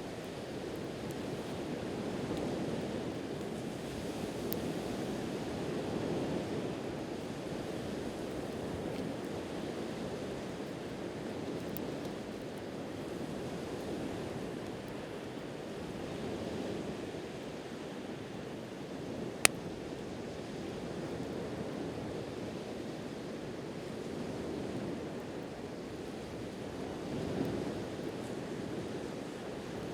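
Sea waves washing onto the shore in a steady, gently swelling rush, with a few faint crackles and one sharp pop from a wood campfire about two-thirds of the way through.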